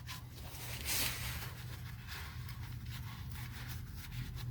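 Rag or paper towel wiping up spilled motor oil, with a brief scraping, rustling rub about a second in, over a steady low hum.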